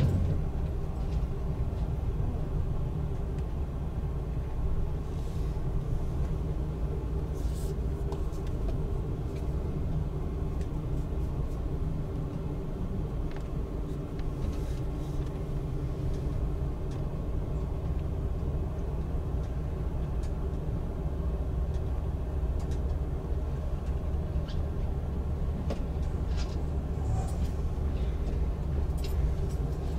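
Steady low rumble of a moving train heard from inside the passenger car, with a few faint clicks scattered through it.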